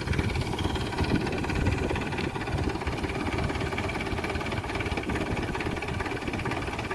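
Tractor engine running steadily, driving a tractor-mounted HTP sprayer pump.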